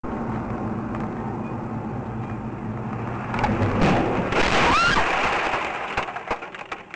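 Steady road and engine drone heard from a car dash cam, then about three and a half seconds in a sudden loud crash-like noise with a brief squeal, followed by scattered knocks as it dies away.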